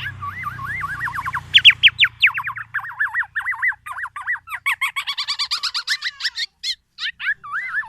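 Black-naped oriole (kepodang) calling: fast strings of looping, chattering notes, several a second, with a short break near the end.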